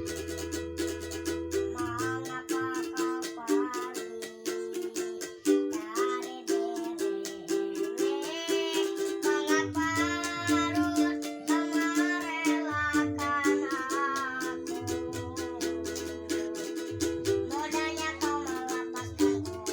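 A child singing a pop ballad melody with 4-string ukulele strumming chords, over a low bass part.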